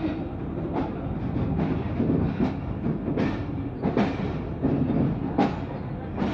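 Passenger train running at speed, its wheels clicking over rail joints about every 0.8 seconds above a steady rumble.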